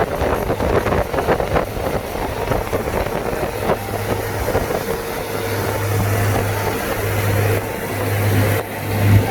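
Car driving along a road: steady engine and road noise, with a low hum that grows stronger and comes and goes in pulses in the second half.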